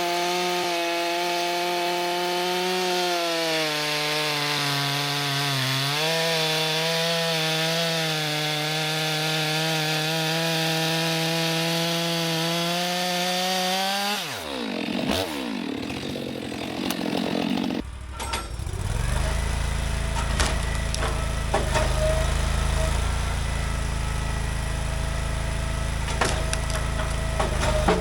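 Two-stroke chainsaw cutting a log at high revs, dipping briefly about six seconds in. Its revs fall away about halfway through as the cut ends. After that a lower, steady engine runs at idle, with scattered knocks of wood.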